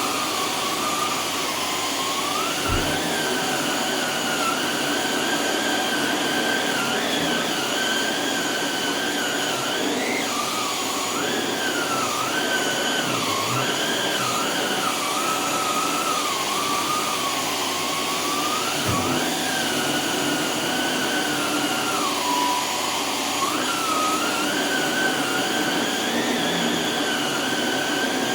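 Canister vacuum cleaner running with a separately powered powerhead attached: a steady rushing of air under a motor whine that keeps wandering up and down in pitch.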